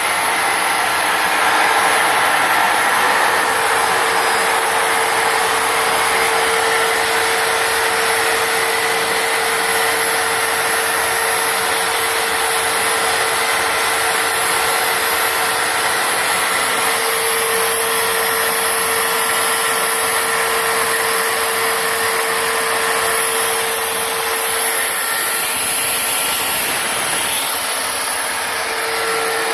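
Homemade turbocharger jet engine running steadily: a loud, even rushing noise with a steady hum and a high-pitched turbine whine on top. It eases off briefly near the end.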